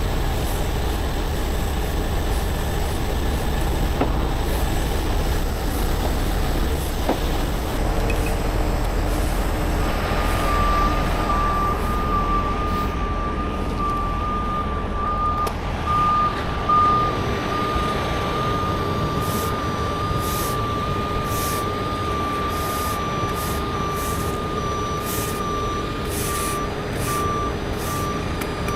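Heavy truck's diesel engine running, then from about ten seconds in a backup alarm beeping steadily at one pitch while the truck reverses.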